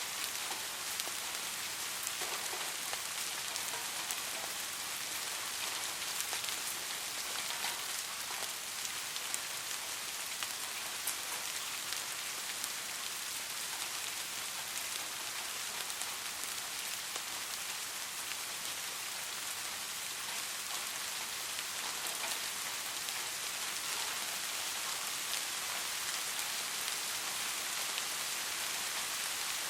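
Soft, steady rain falling, a constant hiss with many small raindrop ticks.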